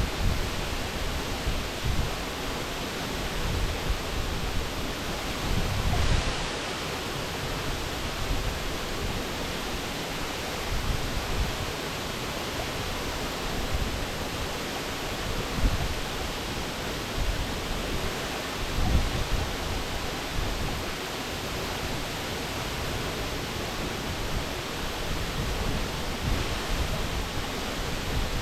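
Waterfall: a steady rush of falling water, with irregular low swells every few seconds.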